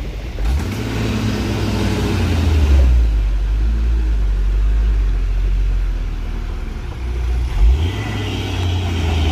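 Truck engine running with a low rumble, revving up about half a second in and again near the end.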